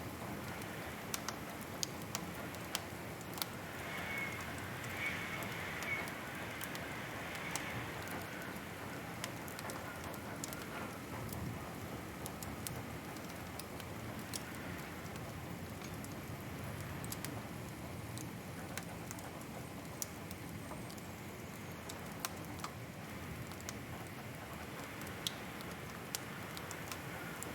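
Wood fire crackling in a fireplace: a steady soft rushing hiss with scattered sharp pops and snaps, the hiss swelling briefly a few seconds in.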